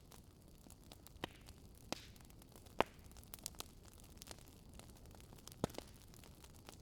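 Wood fire in a fireplace crackling: scattered sharp pops over a soft low hiss, the loudest pop nearly three seconds in.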